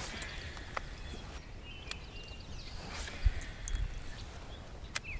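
Small birds chirping and twittering, with a few sharp clicks and some low, dull thumps in the last couple of seconds.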